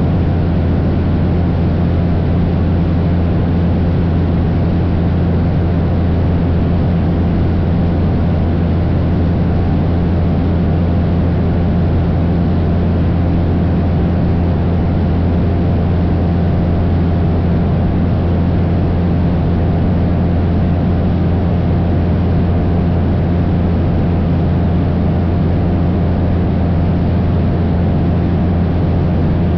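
Cessna 172's piston engine and propeller droning steadily at constant power, a loud, even low hum with no change in pitch.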